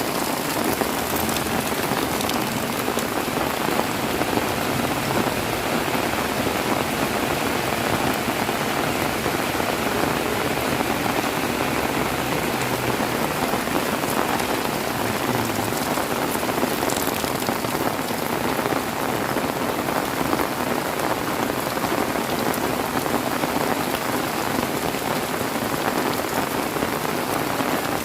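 Heavy rain falling steadily, a dense, even hiss of rain on surfaces with no letting up.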